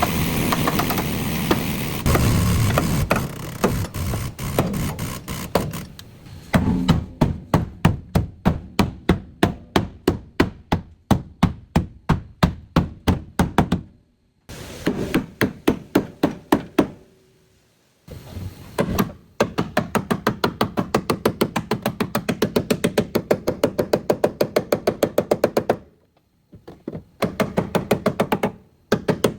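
Repeated hammering in steady runs: about three blows a second at first, then faster strokes later on, with a few abrupt breaks between runs.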